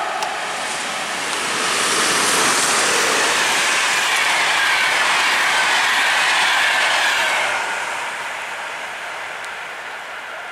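Express passenger train hauled by a Siemens EU44 Husarz electric locomotive passing at speed: wheel and rail noise builds over the first two seconds, stays loud for about five seconds with a falling whine, then fades away as the train recedes.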